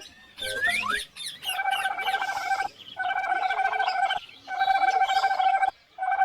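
Bird calls: a few quick rising chirps, then four long, even-pitched calls in a row, each lasting about a second with short breaks between.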